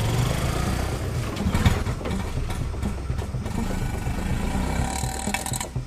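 A motor vehicle's engine running steadily with an uneven low putter, and one sharp knock about a second and a half in.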